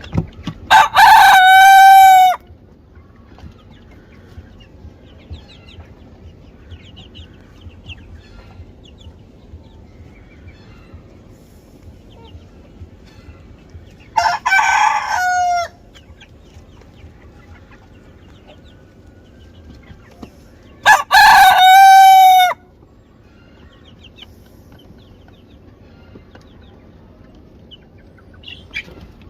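Rooster crowing three times, each crow about a second and a half long and ending on a held note; the middle crow is quieter than the other two. Faint chirping fills the gaps between crows.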